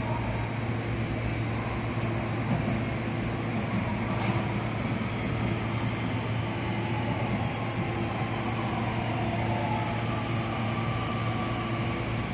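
Nishitetsu electric train, a steady low hum with a faint wavering whine above it and a single sharp click about four seconds in.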